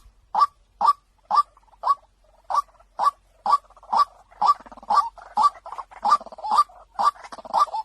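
White-breasted waterhen calls: a short kwak note repeated about twice a second. From about halfway, more calls overlap it, as in a mixed lure track.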